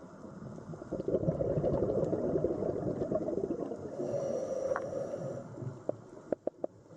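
Underwater ambience: a dense rush of churning water noise that swells about a second in and eases after about five seconds, then a few sharp clicks near the end.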